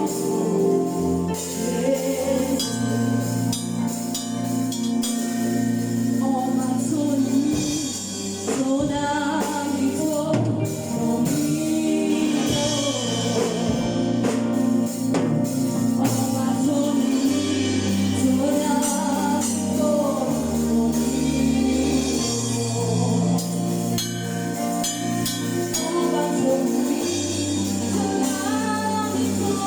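Choir singing gospel music with band accompaniment, over a bass line of held notes that change every second or two.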